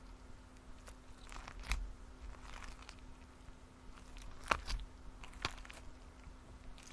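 Slime being squished and poked by hand, giving faint, scattered crackles and a few sharper pops.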